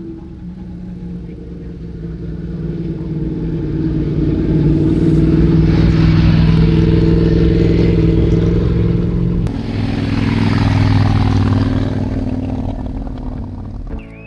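Motorcycle engine running past, growing louder and then fading, with an abrupt change in engine note about nine and a half seconds in.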